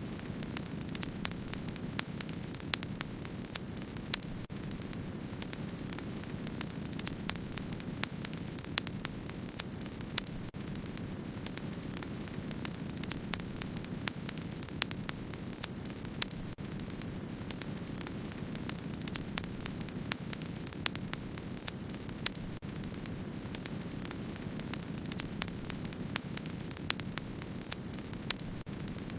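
Wood-burning campfire crackling: a steady low rush of burning with many sharp crackles and pops scattered irregularly throughout.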